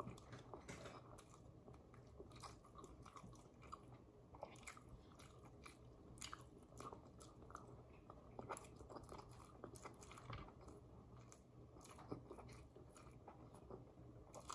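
Faint close-up chewing of a Cajun seafood boil eaten by hand, with small irregular clicks of mouth and food throughout.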